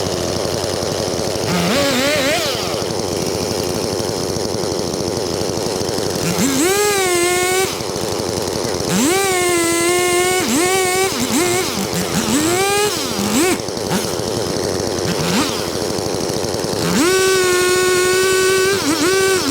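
Two-stroke chainsaw running between idle and full throttle. It revs up and holds a steady high pitch several times, with short blips in the middle and the longest run at full throttle near the end.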